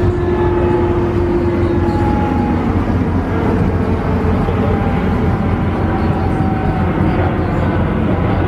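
A loud, steady engine drone, with its tones slowly falling in pitch.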